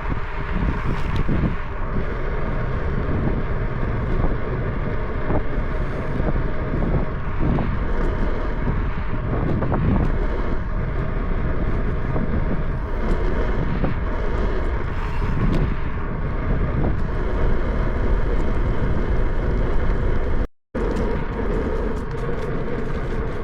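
Steady wind buffeting the microphone of a moving bicycle, with low road rumble underneath. It cuts out for a split second near the end.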